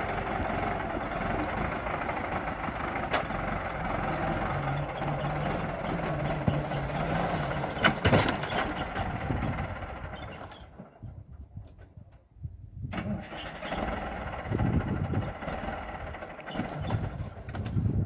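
Valmet 705 tractor's diesel engine being cranked on the starter without catching: a long steady crank that dies away about ten seconds in, then a weaker, uneven crank. The engine has run out of fuel.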